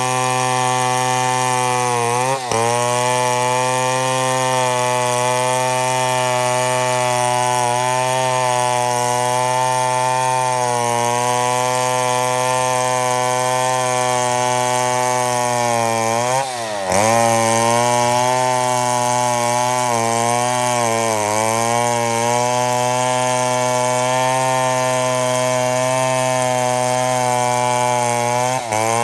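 Two-stroke chainsaw held at full throttle under steady load, ripping a mahogany log lengthwise into a board. Its pitch dips briefly and recovers three times: about two seconds in, midway and just before the end.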